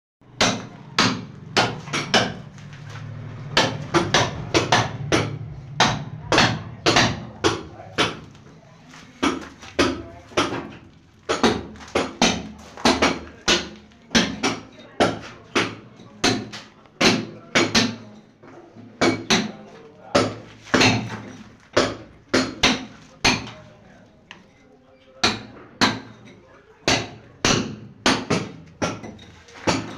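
Hammer striking repeatedly at about one to two blows a second, with short pauses between runs of blows.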